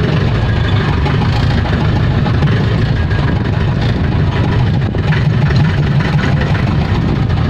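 Motor vehicle engine running steadily, a low rumble.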